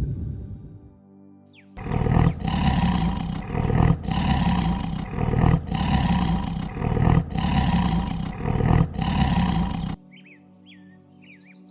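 A large animal roaring in about six loud, evenly spaced pulses, which cut off suddenly near the end and give way to soft background music with bird chirps.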